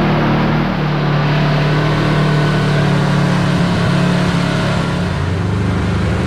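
Kawasaki Teryx KRX4 1000 side-by-side's engine running at a steady pace while driving on the trail, heard from on board, with a slight change in engine note about a second in.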